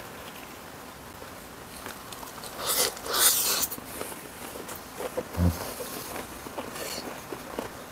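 Close-miked eating sounds: chewing a perilla-leaf wrap of stir-fried white sundae and gopchang, with small wet clicks throughout. A loud airy burst about three seconds in is the loudest moment, and a short low thump follows about five and a half seconds in.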